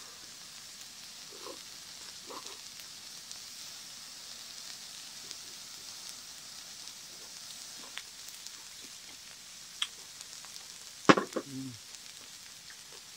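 Beef tripe (gopchang) sizzling steadily in a pan on a tabletop burner, with a few faint clicks of utensils and one sharp clink a little after eleven seconds in.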